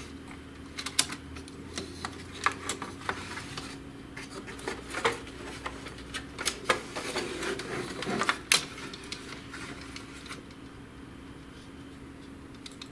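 Scattered clicks and light knocks of the plastic parts and cable of an HP DeskJet GT 5820 inkjet printer being handled as it is taken apart, with a faint steady hum under them. The clicks thin out after about ten seconds.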